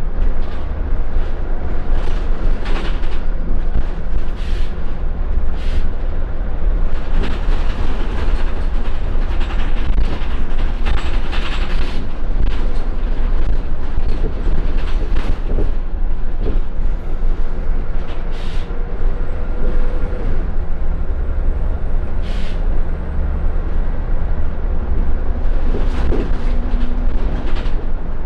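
Scania L94UB Wright Solar single-deck bus on the move, heard from inside the cabin. Its diesel engine and the road make a steady low rumble, with frequent short knocks and rattles from the bodywork.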